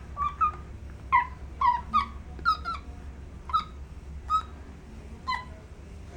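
A tufted (black-capped) capuchin monkey giving about ten short, high, pitched chirping calls. Some of the calls bend in pitch. They come quickly in the first three seconds, then about one a second.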